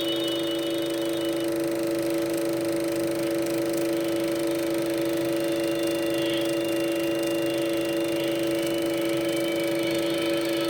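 A steady electronic drone of several held tones at once, unchanging in pitch, from the film's soundtrack played off a Super 8 sound print, with a faint hiss behind it.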